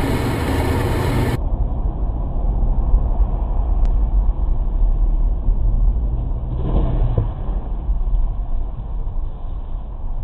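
Steady low rumble of a vehicle's engine and road noise, picked up by a dashcam. About a second and a half in, the sound changes abruptly as one clip cuts to another.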